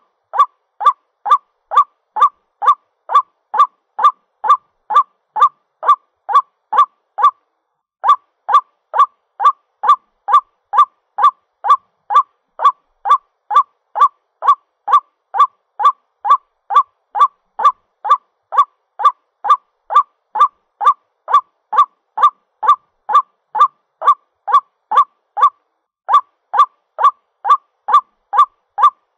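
White-breasted waterhen calling to its mate: a long series of loud, harsh repeated notes, about two a second, with short breaks about seven and twenty-five seconds in.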